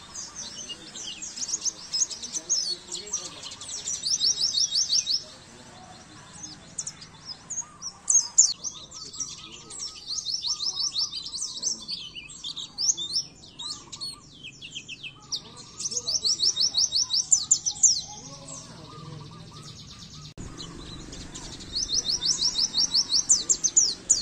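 White-eye (pleci) songbird singing: high, rapid chirping trills in bursts of a second or two, repeated with short gaps between phrases.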